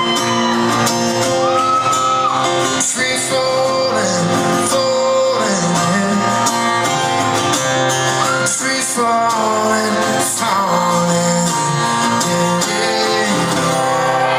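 Live band music: guitar playing with singing, at full level throughout.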